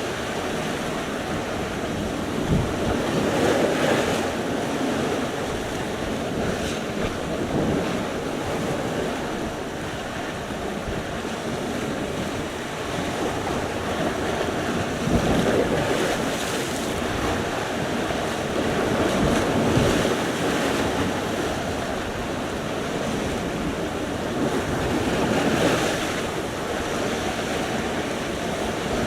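Sea surf: waves breaking and washing in, swelling every few seconds, with wind buffeting the microphone.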